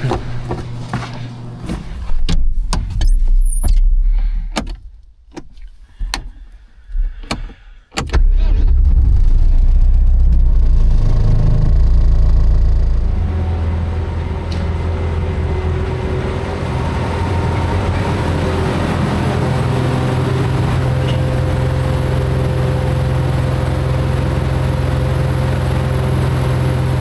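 A few scattered clicks and knocks, then about eight seconds in the ASV RC100 skid steer's diesel engine starts and runs steadily and loudly.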